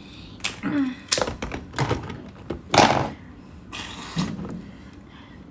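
Crab shell being cracked and broken apart close to the microphone: a series of sharp cracks and clicks, the loudest about three seconds in.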